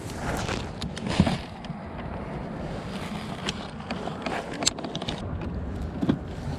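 Steady wind and water noise on a kayak out on the lake, with a few light knocks and clicks from the boat and gear.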